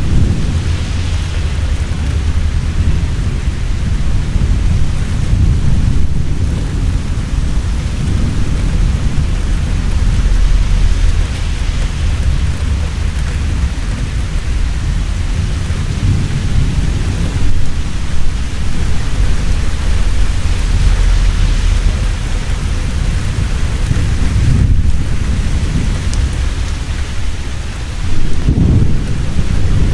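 Heavy rain falling steadily with thunder rumbling continuously underneath; the thunder swells louder near the end.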